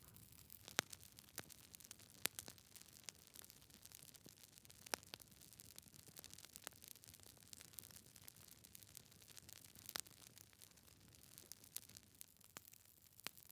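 Wood fire in a fireplace crackling: faint hiss with sharp, irregular pops from the burning logs, the loudest a few seconds apart.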